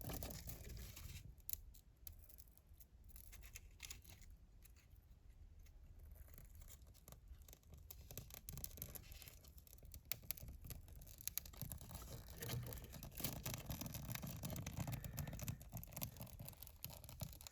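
Firewood and kindling being handled at a fireplace: light scraping, scratching and small clicks, busier and louder in the second half.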